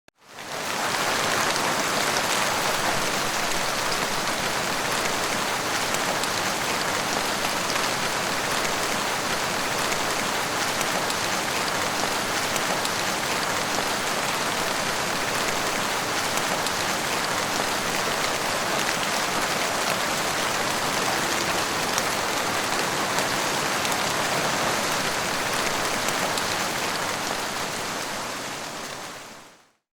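Heavy rain falling steadily as an even, dense hiss. It fades in from silence at the start and fades out in the last second or so.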